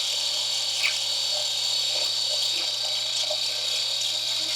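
Grinder running with a lathe tool bit held against it: a steady hiss of steel being ground over a low motor hum. The side and back relief of the finishing tool is being ground in.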